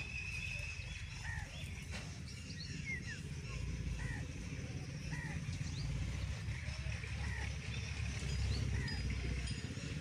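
Birds chirping softly, short rising and falling notes roughly once a second, over a steady low rumble.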